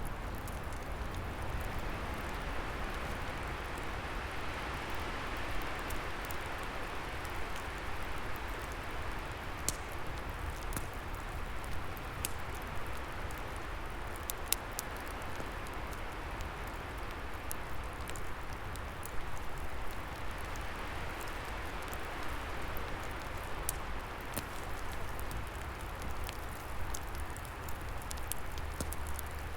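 Wood fire crackling with scattered sharp pops over a steady rushing hiss of wind in the trees that swells and eases.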